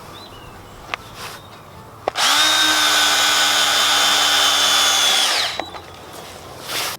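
Cordless drill driving a screw into a timber block, running at a steady whine for about three seconds before winding down. A sharp click comes shortly before it.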